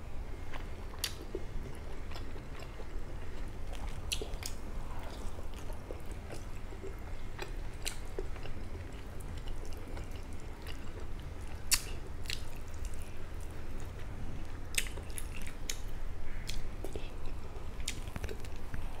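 A person chewing fried fish close to the microphone: scattered short sharp clicks of the mouth and food, over a steady low hum.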